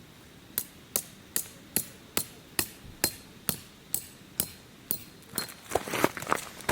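Hammer driving a tent peg: about eleven evenly spaced blows, a little over two a second, each with a short metallic ring, followed near the end by a quicker jumble of knocks and rustling.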